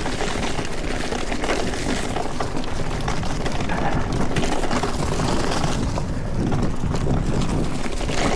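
Mountain bike descending a dirt trail at speed: tyres running over dirt and stones, with a constant stream of small knocks and rattles from the bike as it goes over bumps.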